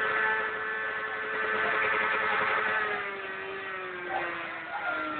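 A motorcycle engine runs at high revs, its pitch holding steady and then falling gradually over the last couple of seconds as it winds down.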